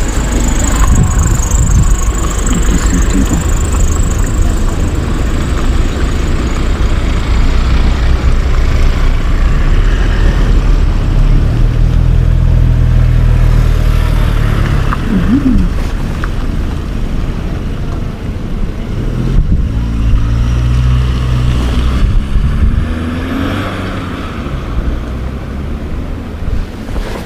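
Motorcycle riding sound: the KTM 790 Adventure's parallel-twin engine running under way, with steady wind rush over the microphone. The engine note comes through more strongly for a few seconds around the middle and again about two-thirds in.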